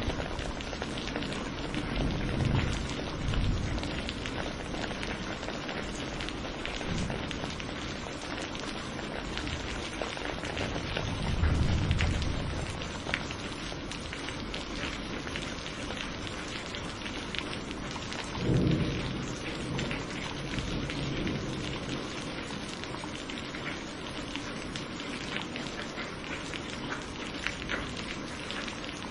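Steady rain falling, with low rolls of thunder: one a couple of seconds in, a bigger one about eleven seconds in, and a sharper one about two-thirds of the way through.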